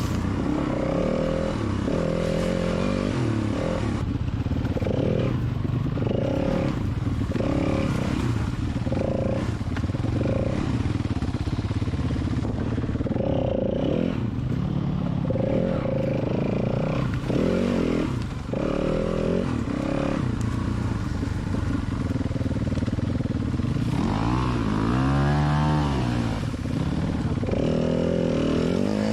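Dirt bike engine being ridden, the throttle opening and closing about once a second. A few seconds before the end one longer rev rises and falls in pitch.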